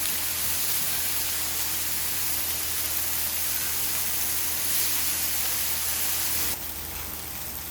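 Pork sizzling on a hot cast-iron griddle, a steady hiss that drops off abruptly about six and a half seconds in.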